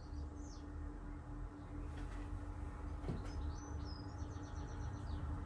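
A bird chirping faintly: a brief call, then a quick run of short repeated high notes a few seconds later, over a steady low room hum.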